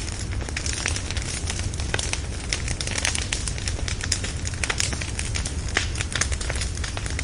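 Wood bonfire burning, a steady low rumble of flame with dense crackling and frequent sharp pops from the logs.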